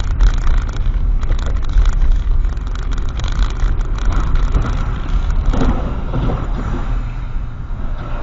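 Loud, steady rumble of a moving car's road and engine noise picked up by a dashcam microphone, with scattered light clicks.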